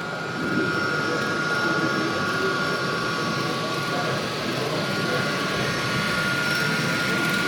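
Busy hall ambience: indistinct crowd chatter over a steady high whine.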